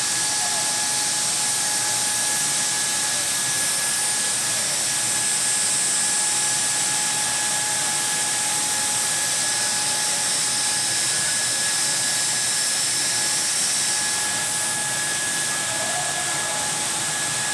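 Hydraulic taphole drilling machine running steadily at a blast furnace taphole: a loud, even hiss with a steady whine made of two high tones.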